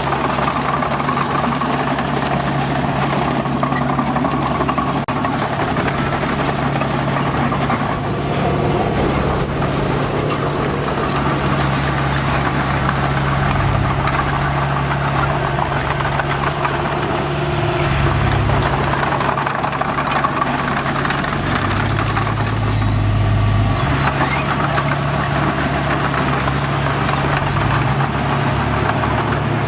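Heavy diesel engine of a working bulldozer running continuously, its note changing a few times.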